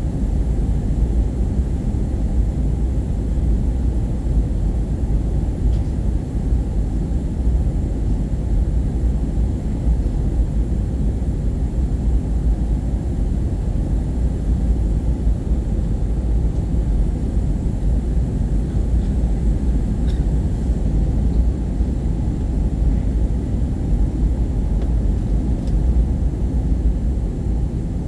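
Airbus A320 cabin noise in flight: a steady low rumble of airflow and engines, unchanging throughout.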